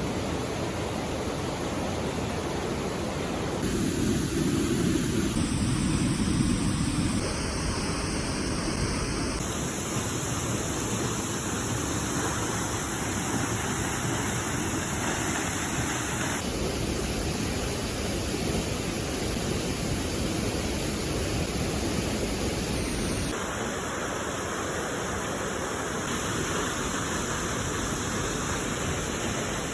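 Waterfall: a steady rush of falling water, swelling louder and lower for a few seconds about four seconds in.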